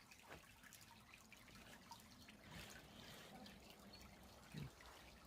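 Faint trickle of creek water with scattered small drips, and a soft low thump about four and a half seconds in.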